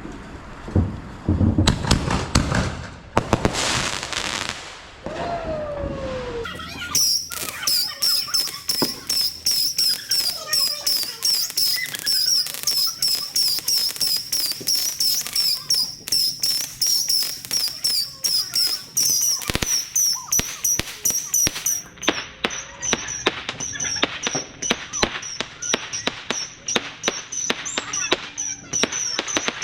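Consumer fireworks going off: a few bangs and a falling whistle in the first seconds, then from about seven seconds in a long run of rapid crackling pops under a steady high whistle.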